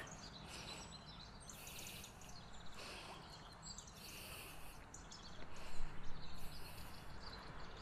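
Birds chirping faintly outdoors in short repeated phrases, over a low steady background noise.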